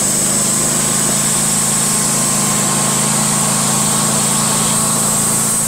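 Wood-Mizer portable band sawmill running steadily as its blade saws through a big pine log, an even engine hum under a steady high whine.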